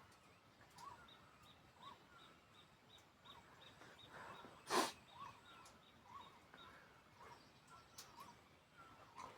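Faint animal chirps repeating roughly once a second in the background, with one short, loud noise about five seconds in.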